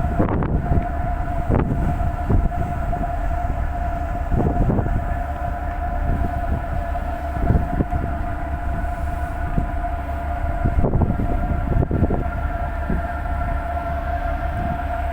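A ferry's engine drones steadily, with a deep rumble and a steady whine, heard on board. Irregular knocks come every second or few through it.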